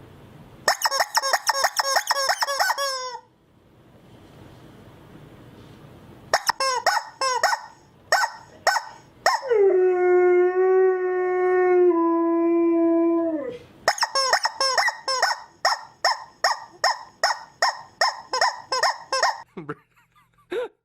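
A dog calling out: a fast string of high yips, then a few single yelps, a long steady howl that steps down in pitch partway through, and an even run of repeated yelps, a little over two a second, near the end.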